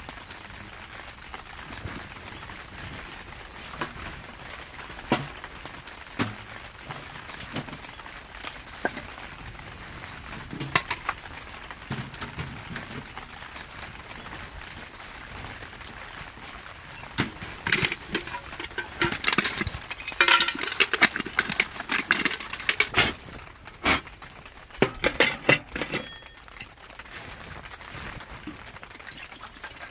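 Steady rain hiss with scattered light taps, broken about halfway through by several seconds of loud, dense crackling and rustling, with a shorter burst a few seconds later.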